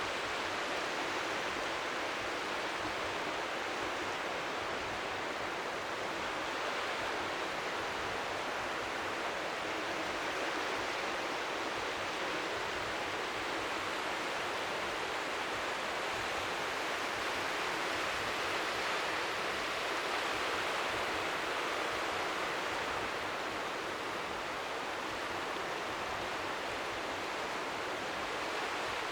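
Steady white-noise hiss of strong wind at the seashore, with small waves lapping faintly underneath.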